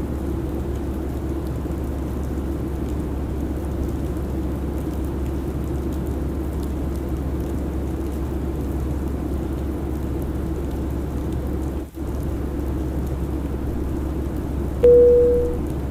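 Steady airliner cabin noise, an even rush of engine and airflow, which cuts out for an instant about twelve seconds in. Near the end a single chime-like tone sounds once and fades.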